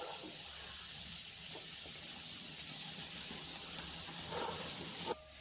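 Diced vegetables and scrambled egg frying in a kadai, a steady fine sizzling hiss that cuts off suddenly near the end.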